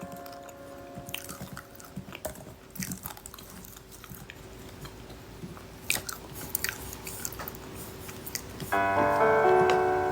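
Irregular close clicks and crunching sounds, then about nine seconds in a chiming melody of music starts loudly.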